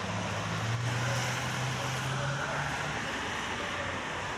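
Busy road traffic: steady road noise with a passing vehicle's engine hum that fades out about three seconds in.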